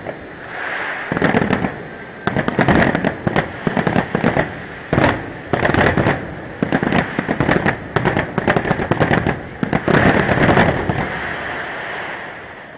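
Fireworks display: aerial shells bursting one after another in quick volleys, with crackling between the bangs, thinning out near the end.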